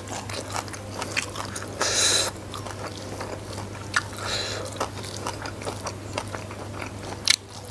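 Close-miked chewing and wet mouth clicks of a person eating rice and fried salted fish by hand. There are two short breathy hisses, a loud one about two seconds in and a weaker one about four seconds in, and a steady low hum underneath.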